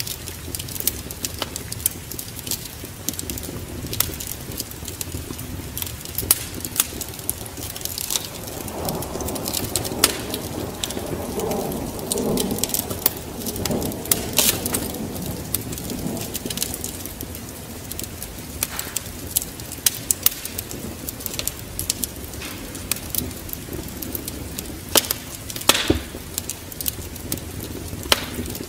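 Wood fire crackling in a fireplace, with irregular sharp snaps and pops. A low rumble swells and fades about a third of the way through.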